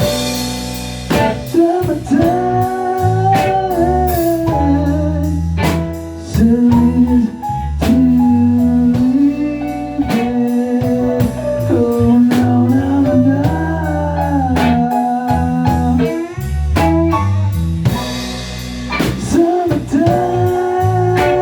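A band playing blues-rock: drum kit hits, a bass line and guitar, with a lead melody line that bends and slides in pitch.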